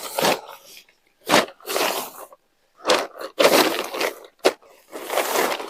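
Dry sticks and leaves crunching and snapping in several separate bursts, with a sharp crack about four and a half seconds in.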